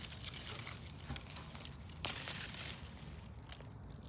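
Weeds being pulled by hand from rain-soaked garden soil: leaves and stems rustling and roots tearing loose, with one sharp snap about two seconds in.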